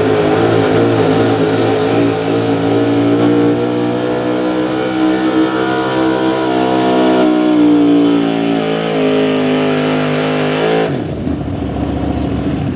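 Pulling truck's small-block V8 held at high revs under load as it drags the sled, its pitch sagging and recovering. About eleven seconds in the engine note drops away as the throttle is released.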